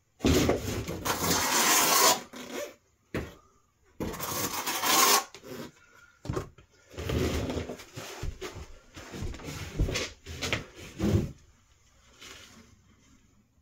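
Repeated rubbing and scraping strokes in four or five bursts of one to two seconds, as material edges are smoothed and pressed in while insulating a chimney with stone wool; the strokes stop near the end.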